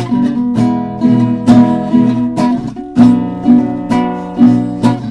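Acoustic guitar strumming chords at a steady beat, about two strums a second, as an instrumental break between sung verses of a slow blues.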